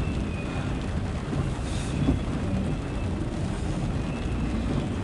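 Loaded CSX autorack freight train rolling past with a steady low rumble, mixed with wind on the microphone.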